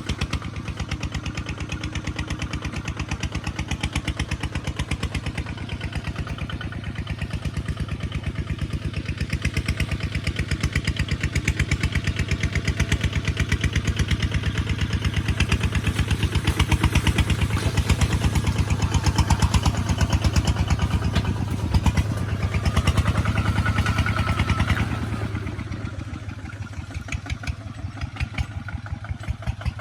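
Kubota ZT155 single-cylinder diesel engine running with a steady rapid chug, growing louder through the middle and easing off about five seconds before the end.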